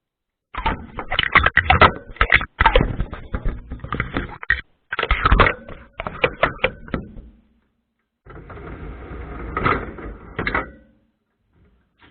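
Dishwasher running, heard from inside the machine: quick clattering and knocking for several seconds, then a stretch of spraying hiss with a few knocks.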